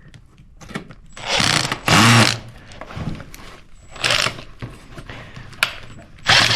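Cordless drill/driver running in about four short bursts, driving screws to fasten metal hanger strap around vent pipe; the loudest burst, about two seconds in, spins up and winds down.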